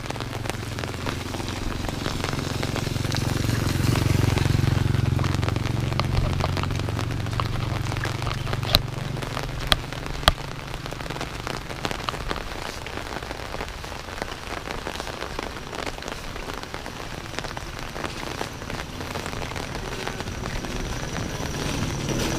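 Steady rain falling and pattering on surfaces, with a low rumble underneath. Three sharp clicks come close together about nine to ten seconds in.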